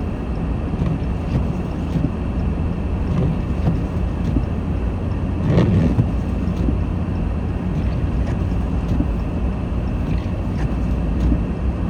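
Steady low rumble of a car's engine and tyres heard from inside the cabin while driving, with a brief louder swell about five and a half seconds in.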